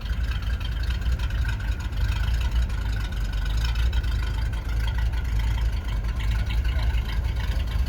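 1963 Ford Thunderbird's 390 V8 idling with a steady, low rumble.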